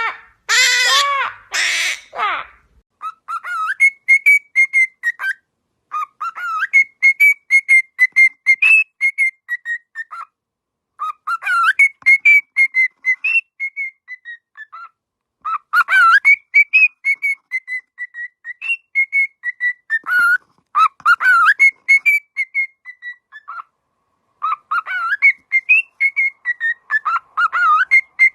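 A pet bird whistling phrase after phrase of short, tuneful notes with quick upward sweeps, in bursts of a few seconds with short pauses between; a few harsher calls come first.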